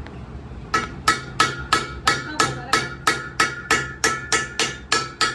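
Hammer striking steel in a steady rhythm, about three ringing blows a second, starting just under a second in.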